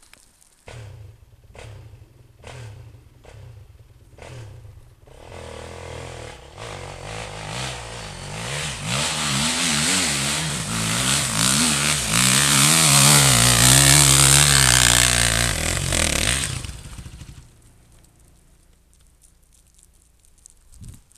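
Four-stroke single-cylinder dirt bike engine running low with a few scraping knocks, then revving up and down and growing steadily louder for about ten seconds before cutting off suddenly.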